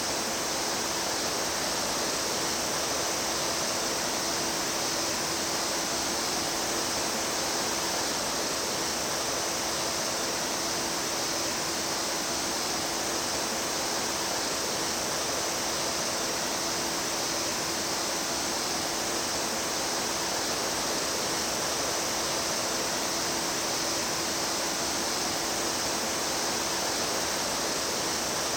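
A mountain stream flowing over rocks: a steady, unbroken rush of water.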